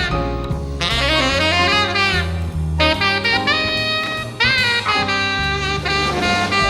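Jazz band playing, a saxophone carrying a melodic line with bending notes over a stepping bass line.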